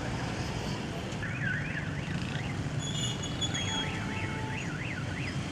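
A warbling siren-like tone that sweeps up and down several times a second, heard in two short runs, over a steady low rumble like distant traffic.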